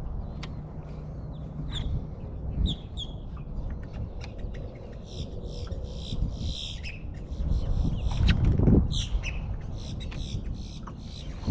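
Birds chirping and calling again and again over a steady low rumble, with the rumble swelling louder about eight seconds in.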